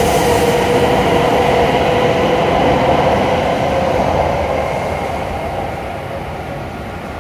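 W7 series Shinkansen train pulling out of the platform: its running noise, with a steady whine in it, passes close by. The sound fades away about five seconds in as the last car clears.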